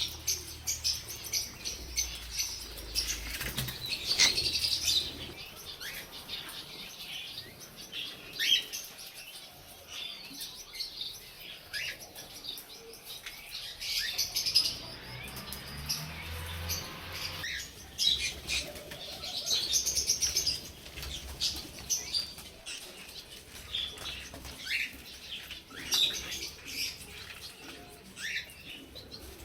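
Several budgerigars chirping and chattering, with many short, high chirps overlapping, mixed with wing flutters.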